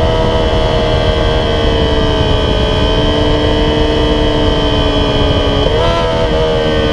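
Yamaha YZF-R6 inline-four sportbike engine at high revs on track, heard from an onboard camera with wind rush over it. The engine note sags slowly through the corner, jumps up briefly near the end, then settles a little lower.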